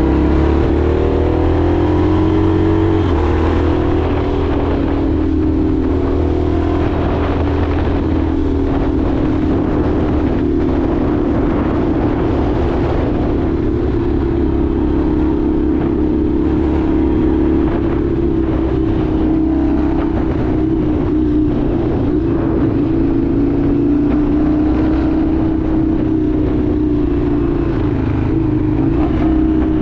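Indian FTR 1200's V-twin engine running under way: it revs up over the first few seconds, then holds a nearly steady speed with small dips in pitch.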